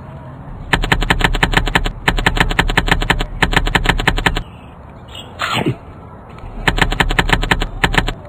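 Four bursts of rapid-fire sharp bangs, about ten a second, each burst lasting about a second. Between the third and fourth burst, a single whistle falls steeply in pitch.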